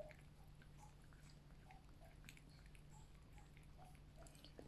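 Faint chewing and small clicks of a cat eating its food, over a low steady hum.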